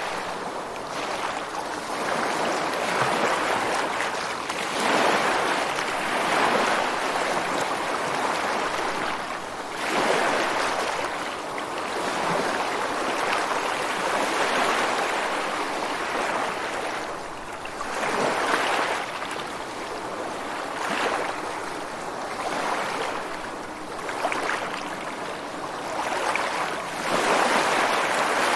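Ocean waves breaking on a rocky shore, a steady rush of surf that swells and eases every few seconds as each wave comes in and washes against the rocks.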